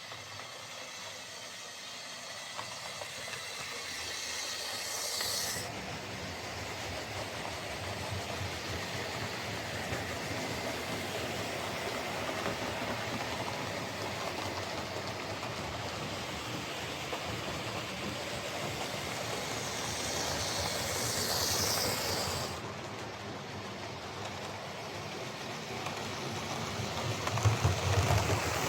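OO gauge Mainline Dean Goods model locomotive running round a layout, its tender-mounted Airfix-type motor bogie whirring with gear noise, a bit noisy from its many plastic gears. The sound grows louder near the end.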